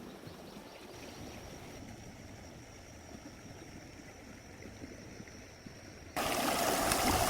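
Faint running water of a stream, an even low hiss. About six seconds in, it cuts suddenly to a much louder, brighter rush of water.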